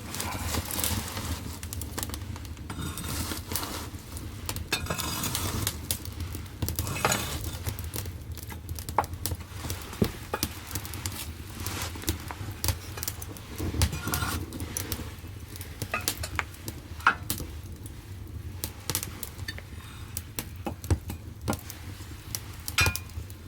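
Firewood burning in the firebox of a wood-fired bath heater: irregular crackles and sharp pops over a steady low rumble of the fire.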